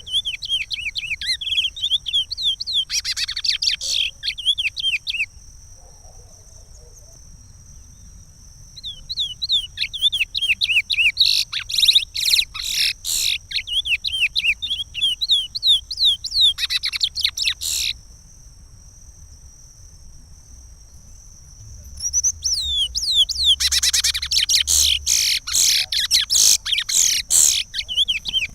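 A curió (chestnut-bellied seed-finch) singing the Pará regional song in three bouts of quick whistled notes and trills, with pauses of a few seconds between them.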